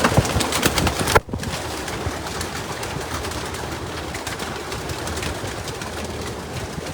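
Many racing pigeons cooing together in a loft as a steady background. About a second in, a few handling knocks and a sharp bump as the recording phone is set in place.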